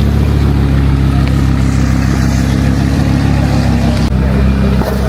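An engine running steadily with a low hum. Its tone shifts slightly about four seconds in.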